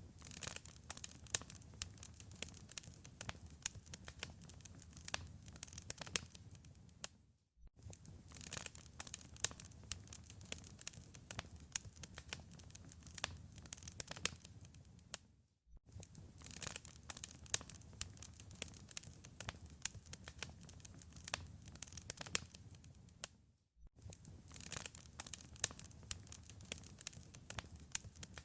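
Wood fire in a fireplace crackling, with dense irregular pops and snaps over a low, steady rumble of flames. The sound drops out to silence for a moment about every eight seconds.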